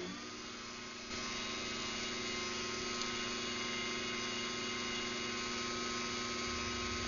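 Craftsman 139.53918D garage door opener running an opening cycle: the motor starts up and runs with a steady hum and whine, louder about a second in, and begins to wind down with a falling pitch at the very end.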